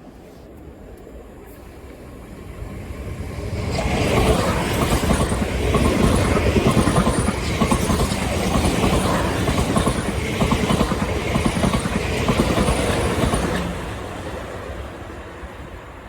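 A train passing the platform. Its noise builds and turns loud about four seconds in, a dense rumble and rattle of wheels on rails, stays loud for about ten seconds, then fades near the end.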